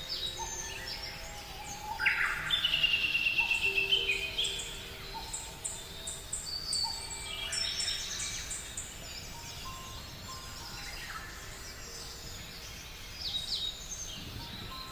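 Many small birds chirping and singing, with a loud, rapid trill of repeated notes about two seconds in, over soft background music of held notes.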